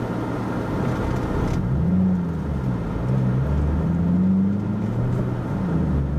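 Car engine and road noise heard from inside the cabin, the engine's pitch rising and falling a few times as the car speeds up and eases off.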